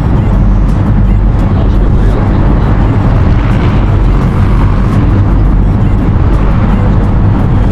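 River ferry's engine running with a steady low drone, under a constant broad rushing noise.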